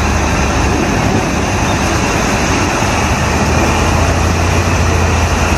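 Steady car engine and road noise with a deep, even low hum, holding level without revving.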